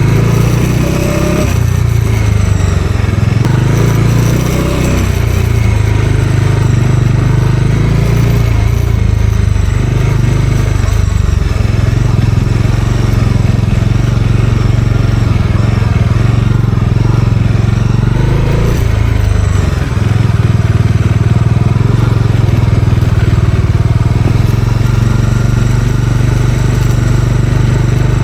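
Bajaj Dominar 400 single-cylinder motorcycle engine running under way, loud and steady, its pitch dipping and rising several times as the throttle is eased and opened.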